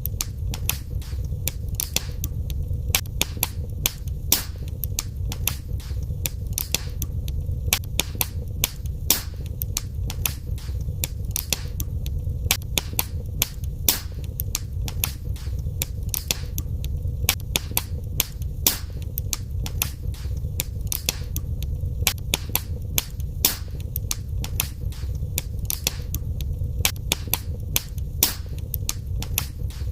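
Wood fire burning in a fireplace: a steady low rumble of flames under frequent, irregular sharp crackles and pops, several a second.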